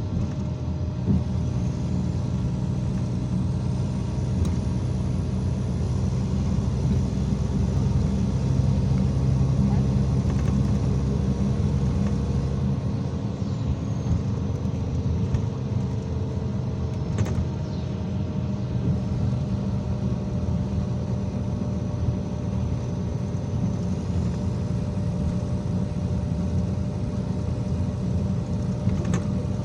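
IVECO Crossway 13M city bus under way, heard from inside the cabin: a steady engine and drivetrain hum with road noise, swelling a little midway and easing back. A faint high whine rises and later falls, and a couple of sharp clicks sound in the second half.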